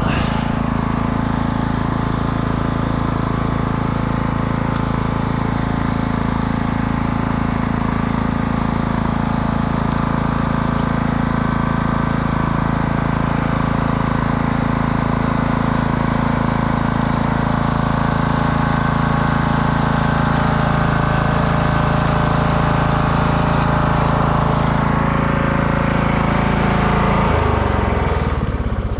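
Husqvarna riding lawnmower engine running steadily at a high, constant speed, then dropping in pitch near the end as it is throttled down.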